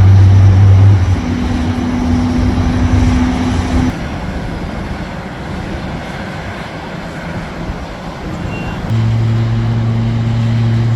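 Airbus A350 pushback noise: a steady low machine hum over an even rush. The hum changes abruptly about a second in and again about four seconds in, drops back for a few seconds, then returns stronger near the end.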